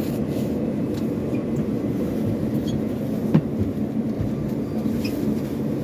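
Steady low rumble inside a New York City subway L train car, with one sharp clank a little over three seconds in.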